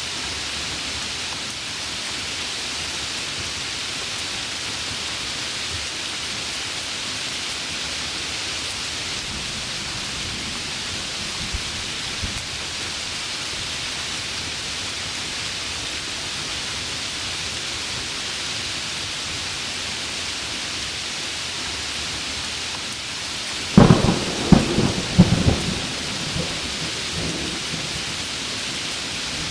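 Steady heavy rain with a thunderclap near the end: a burst of sharp cracks and rumbling that fades over a few seconds. A faint low rumble of thunder comes about a third of the way in.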